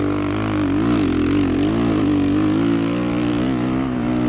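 Motocross bike engine running, its pitch rising and falling again and again as the throttle is worked.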